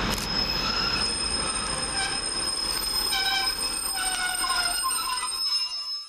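Northern Class 150 diesel multiple unit pulling into the platform, its wheels and brakes squealing over a steady rumble. One high steady whine runs throughout, while shorter squeals shift up and down in pitch. The sound cuts off suddenly near the end.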